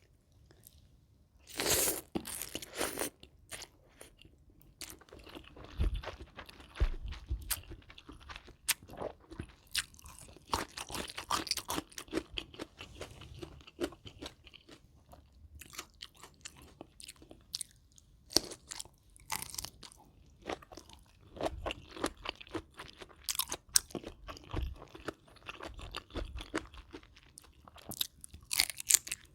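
Close-miked person chewing and biting crunchy food, raw shrimp and fresh vegetables from a spicy rice-noodle salad, with irregular crunches throughout.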